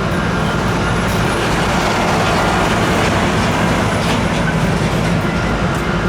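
Steady rumble of a moving vehicle, with faint high whining tones above it.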